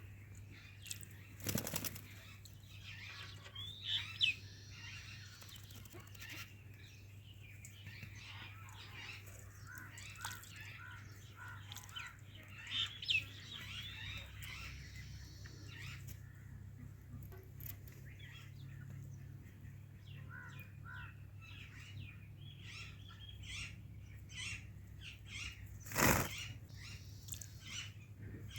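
A parrot bathing, flapping its wings, with scattered short chirps and squawks over a steady low hum; two sharp knocks, one near the start and one near the end.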